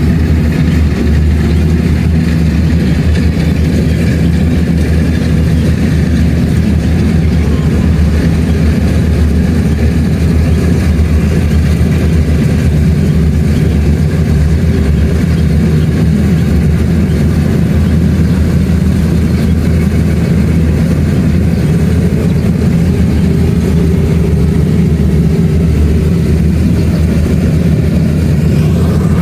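Kubota DC-70 Plus rice combine harvester's diesel engine running steadily at working speed while harvesting, a loud even low hum.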